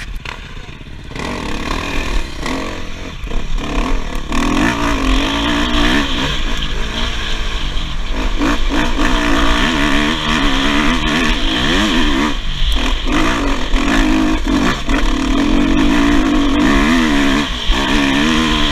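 Dirt bike engine heard from a camera on the bike while riding a trail, its pitch climbing and dropping again and again as the rider opens and closes the throttle.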